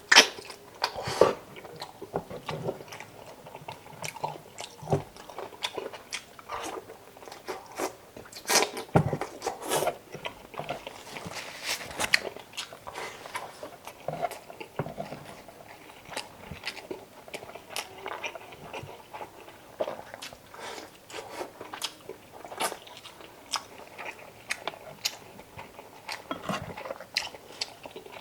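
A person eating chicken adobo close to the microphone, chewing and biting: many short, irregular mouth clicks and crunches.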